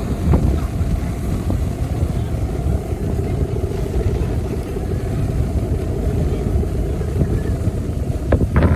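Strong wind buffeting the microphone at the shore as a dense, steady low rumble, with a faint steady hum underneath.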